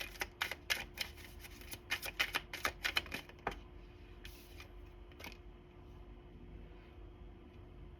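A quick run of sharp taps, a few a second, for the first three and a half seconds, then two more spaced taps and a faint steady hum.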